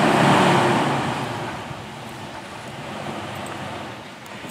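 Jeep engine working under load on a rocky creek crossing, with a loud rushing noise that is strongest in the first second and eases off over the next couple of seconds.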